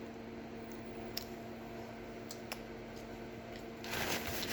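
Quiet background with a steady low hum, a few faint clicks, and a brief rustle near the end.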